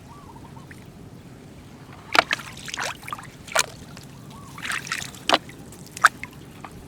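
Shallow flowing floodwater splashing and sloshing in about six short, irregular bursts over a faint steady wash of running water.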